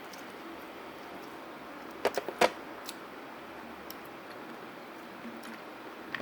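A quick run of four or five sharp clicks and cracks about two seconds in, then a few fainter ticks, over a steady low hiss.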